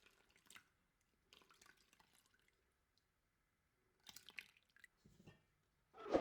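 Faint wet kitchen sounds in a few short bursts: liquid dripping and squishing as ingredients go into a mixing bowl. A louder clink with a ringing tone starts right at the end.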